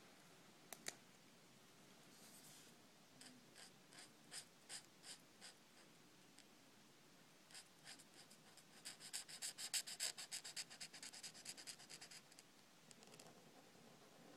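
Faint scratching of a drawing tool on paper as a drawing is coloured in: a few separate strokes, then a quicker run of back-and-forth strokes a little past the middle.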